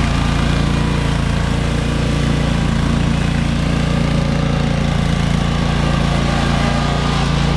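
John Deere X728 garden tractor's V-twin engine running steadily while the tractor works its front end loader.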